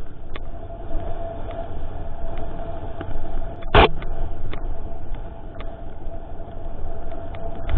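Mountain bike rolling along a trail, heard from a camera mounted on it: a low wind rumble on the microphone and a steady hum, with scattered small ticks and one loud knock about four seconds in as the bike hits a bump.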